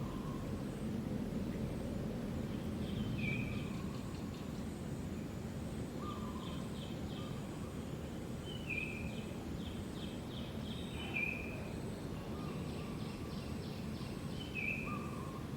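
Outdoor ambience: a steady background noise with short bird chirps and calls recurring every couple of seconds, some in quick trills.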